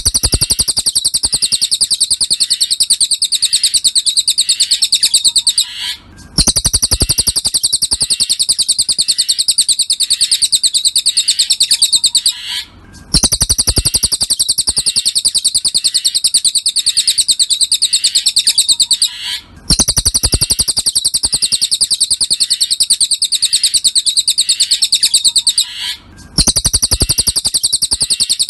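Cililin bird singing a long, very rapid, high-pitched trill in phrases about six seconds long, each broken by a short pause and repeated the same way, as in a looped song-training track.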